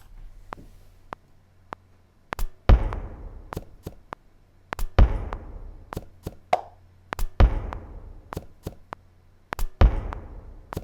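A looped rhythm of sampled found-object hits, knocks and taps, played back from a sampler. A heavy low thump comes round about every two and a half seconds, with lighter sharp ticks between.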